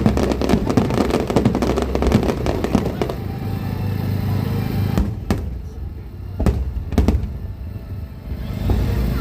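Fireworks going off: a dense crackling for the first three seconds, then several separate sharp bangs about halfway through, over a low rumble.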